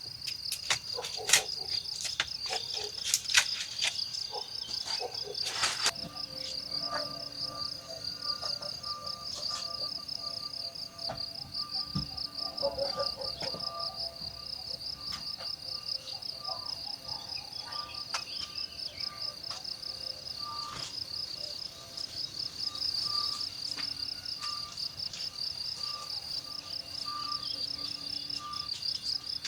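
Insects chirring steadily in a fast, even pulsing trill, with a few sharp clicks or knocks in the first several seconds.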